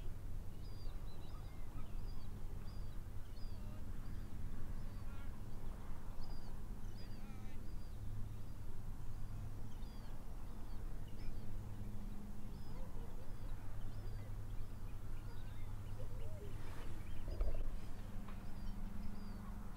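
Birds calling: many short, high chirping calls scattered throughout, over a steady low hum.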